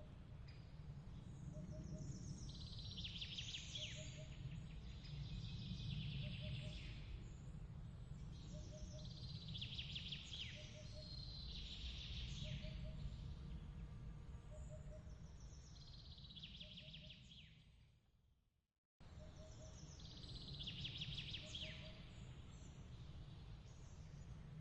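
Ambience track of birds chirping in short trilled phrases every couple of seconds over a low steady rumble, with a faint double pip repeating about once a second. About three-quarters of the way through it fades to silence and cuts straight back in, the loop point of the recording.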